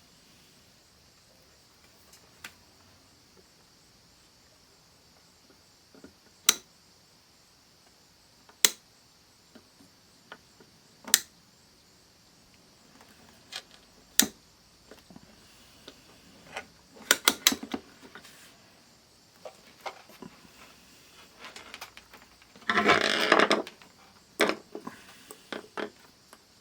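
Hands working an analog multimeter and its test leads: scattered sharp clicks and taps, a quick run of clicks about two thirds of the way in, and a rustling scrape of about a second near the end.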